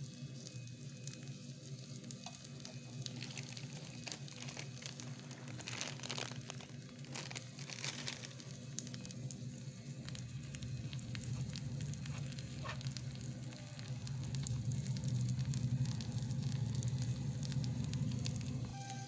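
Tomatoes, onion and green chillies sizzling in a miniature steel wok, with scattered crackles. A low rumble grows louder over the last few seconds.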